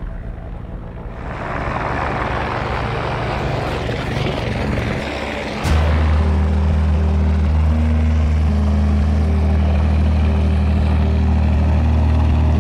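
Helicopter noise, a steady rushing whoosh. About halfway through, a loud low drone of background music with slow held notes comes in over it.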